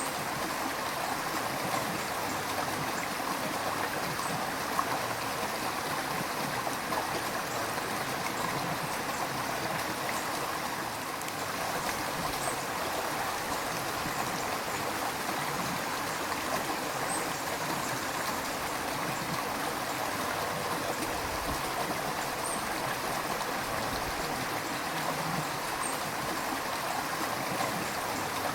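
River water flowing and babbling steadily, an even rushing with small gurgles.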